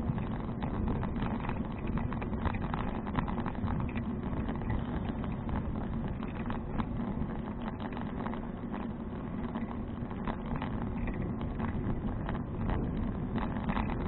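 Riding noise of a touring bicycle picked up by a bike-mounted action camera: a steady rush of wind and rolling with many small rattling clicks throughout.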